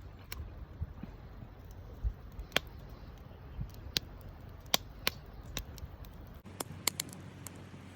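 Wood campfire crackling: sharp, irregular pops over a low steady rumble.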